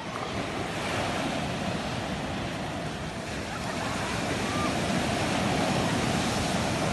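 Sea surf washing ashore: a steady rush of waves that swells a little louder in the second half.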